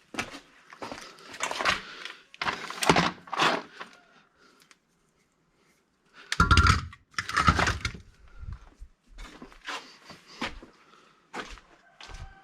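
Clattering and knocking of items being handled and moved around, with a near-silent pause in the middle and then a loud, heavy thud about six and a half seconds in.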